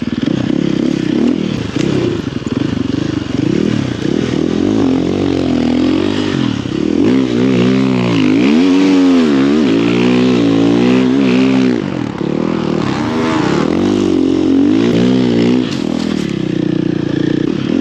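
Snow bike's single engine revving up and down over and over as it is ridden, with short bursts of throttle and pitch rising and falling every second or two.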